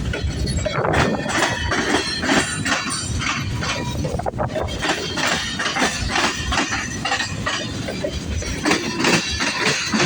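Cars of a long CSX freight train rolling past, their wheels clanking and clattering irregularly on the rails with a faint metallic squeal.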